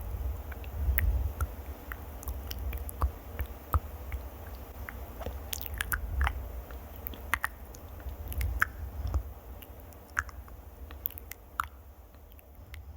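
Close-miked ASMR mouth sounds: scattered wet clicks and smacks over a low rumble, growing quieter toward the end.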